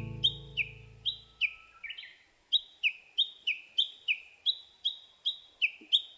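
Repeated short chirping calls, about three a second, each sliding down in pitch, from a field recording of the wild. The last chord of the background music fades out under them in the first second and a half.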